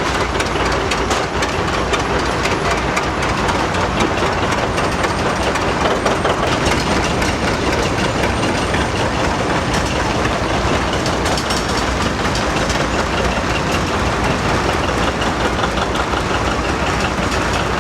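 An engine running steadily with a dense, rapid mechanical clatter.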